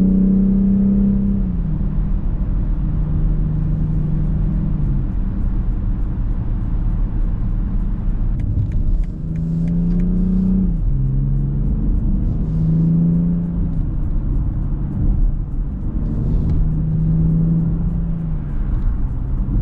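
BMW X6 xDrive40i's turbocharged inline-six engine pulling under acceleration, its pitch climbing and then stepping down at each automatic upshift, several times.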